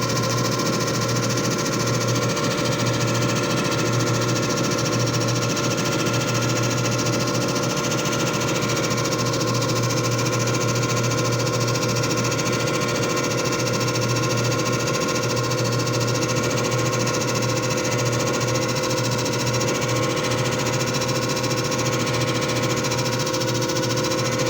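JFJ Easy Pro disc repair machine running: a steady mechanical motor hum with several fixed tones that do not change.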